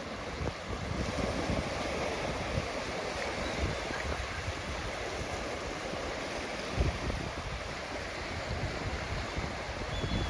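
Gentle ocean waves washing onto a beach in a steady hiss of surf, with wind gusting on the microphone in low rumbles and a brief low thump about seven seconds in.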